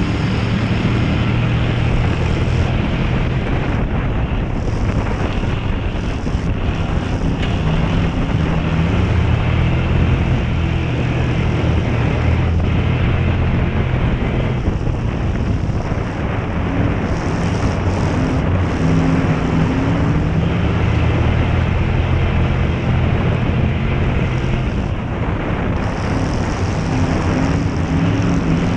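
Crown Victoria race car's V8 engine running hard through a dirt-track heat race, its note rising and falling with throttle, under steady wind and road noise.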